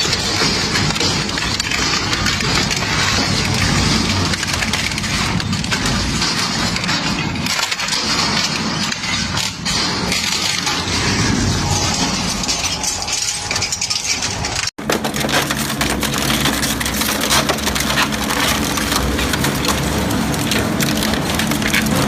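Engine-driven crushing/shredding machine running under load, with a dense, continuous crackling and grinding of material being broken up over a steady engine hum. The sound cuts out for an instant about 15 seconds in and resumes, with the engine hum more evident.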